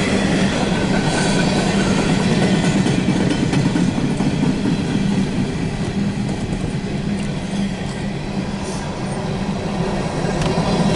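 Empty CSX coal train rolling past, with a steady, continuous run of wheel and rail noise.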